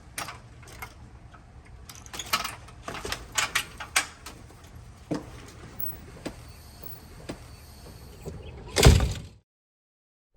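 A run of scattered light clicks and knocks, like things being handled or moved, over a low hum. Near the end comes one louder sliding, thudding noise of about half a second, and then the sound cuts off to silence.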